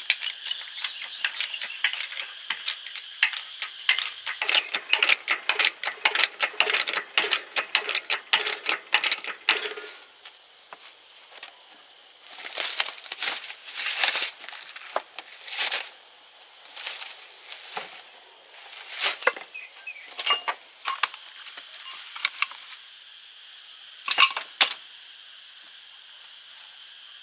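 Metal tools and parts clinking and rattling during hands-on repair work. Rapid clicking and clinking for about the first ten seconds gives way to scattered short scrapes and rattles.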